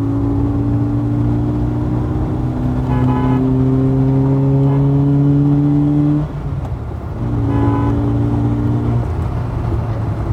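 Tuned Honda City's swapped-in 1.5-litre engine pulling hard under acceleration, its pitch climbing steadily for about six seconds. It drops off suddenly at a gear change, pulls again for under two seconds and eases off near the end.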